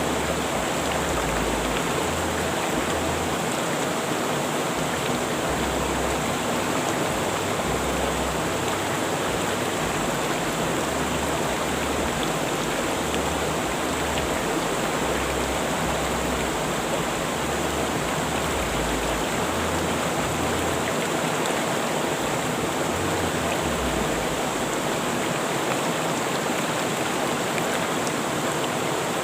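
River water rushing over rocks, a steady full noise with no breaks.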